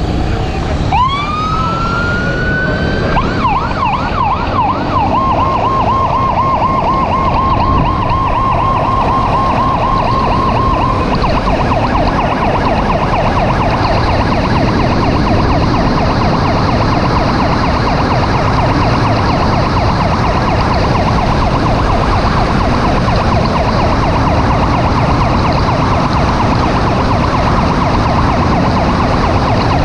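Rescue vehicle's electronic siren switching on: a rising wail about a second in, then a fast warbling yelp that keeps going, over the noise of the vehicle driving.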